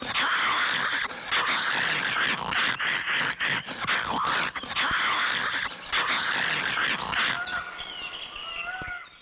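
A noisy din of cartoon animal-like cries, swelling and falling about once a second. It gives way near the end to a few thin whistled glides.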